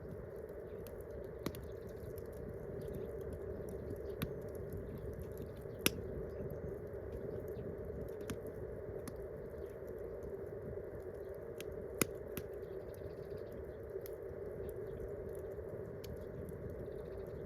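Wood campfire burning with a steady low rush and a few sharp, scattered crackles, the loudest about 6 and 12 seconds in.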